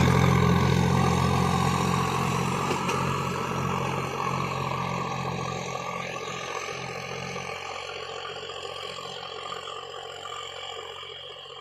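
Sonalika tractor's diesel engine running steadily while working the field, its hum fading away throughout as the tractor moves off.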